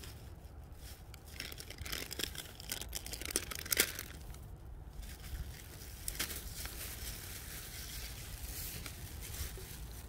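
Plastic bag and food packaging crinkling and rustling as it is handled, with crackly bursts that are loudest about four seconds in.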